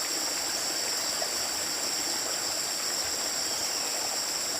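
Steady rush of flowing water, with a continuous high insect drone over it.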